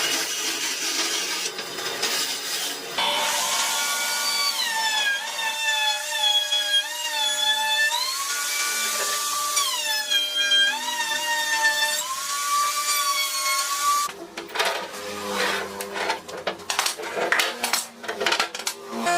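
Power tool cutting into wood: a motor whine that sags and recovers in pitch as it bites, between stretches of rough rasping. Toward the end it gives way to quick, uneven rasping strokes.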